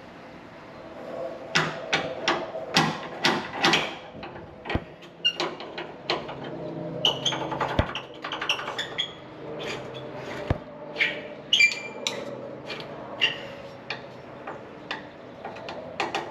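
Irregular metallic clinks and knocks of hand tools and parts being handled, some with a brief ring, over a steady hum.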